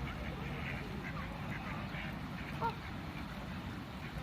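Ducks quacking, many short calls overlapping, with one louder call a little over halfway through.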